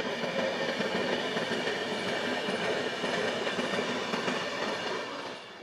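ETR 470 Pendolino electric tilting train passing at speed: a steady rush of wheels on rails with several high whining tones, fading out near the end.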